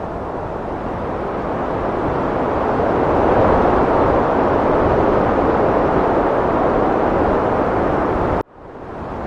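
Heavy wind blowing in a steady rush that swells a few seconds in. Near the end it cuts out abruptly and fades straight back in, a join in the loop.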